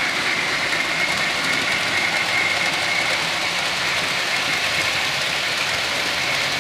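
A model railway locomotive running steadily on the layout: a constant hiss with a thin steady whine.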